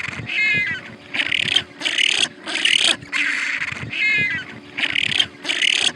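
An animal's call in short, harsh, noisy bursts, about two a second, with a quick high trill twice.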